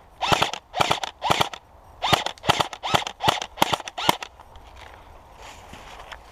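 Airsoft rifle firing single shots, about nine sharp pops in four seconds at an uneven pace, then stopping.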